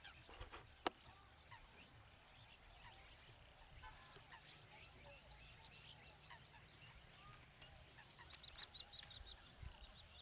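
A flock of rosy starlings chattering faintly, with many short high calls overlapping and a quick run of chirps near the end. A single sharp click sounds about a second in.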